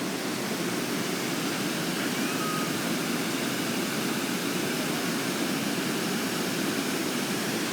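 Steady rushing of river water pouring over a low dam that holds up the San Antonio River's level.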